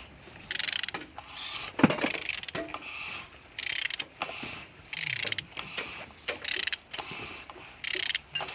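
Ratchet wrench clicking in repeated short strokes as the crankshaft of a B14XER 1.4-litre petrol engine is turned over by hand, with one sharp metallic click about two seconds in. The engine turns freely and is not seized.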